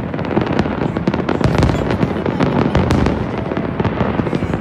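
A large fireworks display with many shells bursting at once: a dense, unbroken run of bangs and pops with no pauses.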